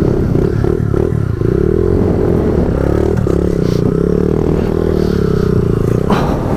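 Pit bike's small single-cylinder engine revving up and down under load as it claws up a rocky climb, with a few knocks and scrapes from the rocks.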